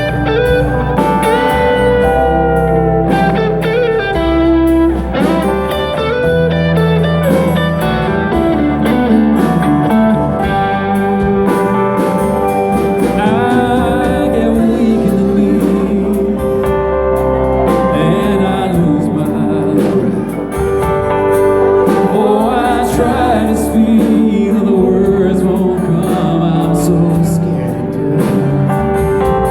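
Live band playing a blues-country number: electric guitar lead with bending notes over bass and a steady drum beat.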